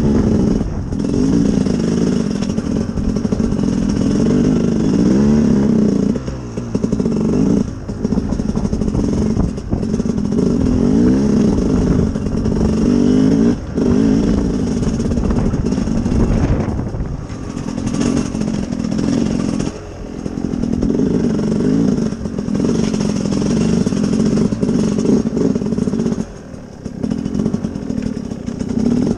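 Sherco SE-R 300 two-stroke enduro motorcycle engine running under way, revs rising and falling as the throttle is worked, with brief drops several times where the throttle is shut off.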